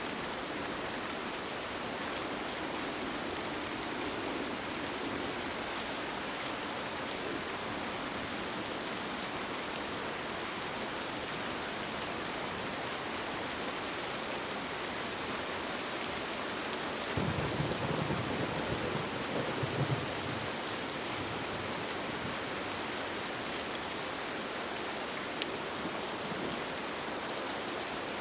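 Steady rain falling on a tent, an even hiss throughout. A brief low rumble comes about two-thirds of the way through.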